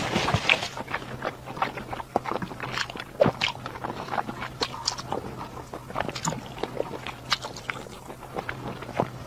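Close-miked chewing: wet mouth clicks and smacks, irregular, several a second, as food from a dish of skewers in chili oil is eaten.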